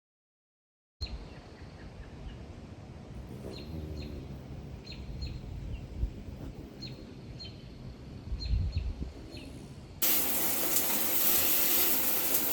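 Birds chirping in short, high, falling notes over a low rumble, followed about ten seconds in by a much louder, steady rushing hiss that cuts off abruptly.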